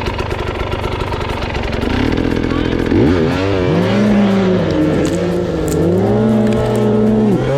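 Dirt bike engine under hard throttle on a steep trail climb, revving up and down several times and held high near the end. There is clattering for the first few seconds.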